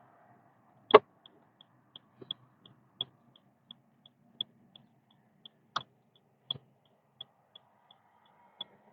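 A car's turn-signal indicator ticking evenly, about three ticks a second, over a faint low engine hum. A few louder sharp knocks stand out, the loudest about a second in.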